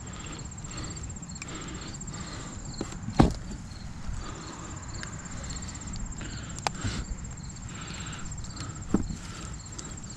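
Hands rummaging through straw and soil, with one sharp knock about three seconds in and lighter clicks later. Behind it runs a steady high insect trill, with softer chirps repeating about twice a second.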